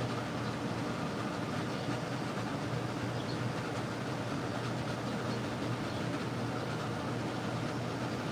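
Steady background noise: a low hum under an even hiss, with no distinct event.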